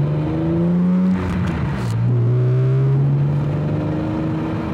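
BMW M3 engine pulling under acceleration: its pitch climbs for about a second, drops sharply at an upshift, then rises again more slowly in the next gear.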